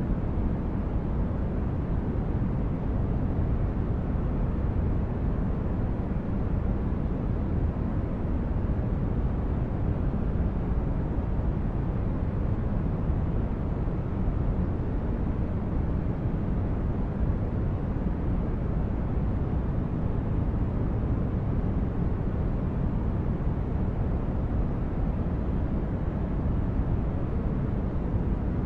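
Steady, unchanging relaxation noise weighted to the low end, a deep even rumble with little hiss at the top, used as a sleep aid.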